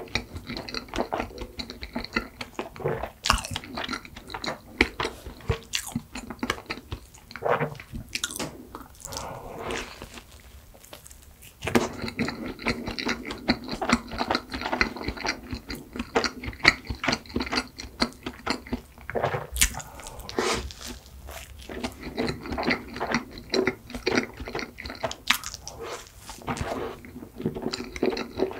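Close-miked chewing of a flaky croissant pastry topped with whipped cream: dense crisp crackles from the pastry layers with mouth sounds. It goes quieter for a couple of seconds around ten seconds in, then picks up again.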